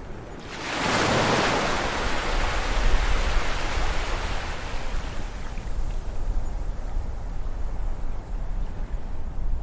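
Sea waves breaking on a beach: a wave crashes about half a second in and its hiss of surf fades slowly over the following seconds, over a steady low rumble.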